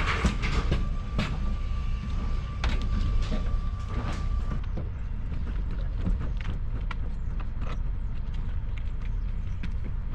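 A vehicle's steady low rumble with scattered clicks and rattles. A steady high tone runs over it and cuts off about halfway through.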